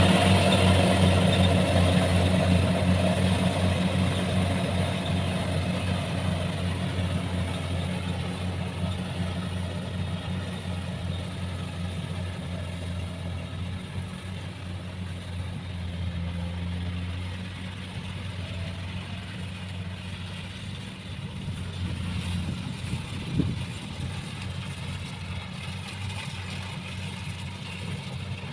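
Engine of a rice combine harvester running steadily with a pulsing low hum, fading gradually. A single sharp click near the end.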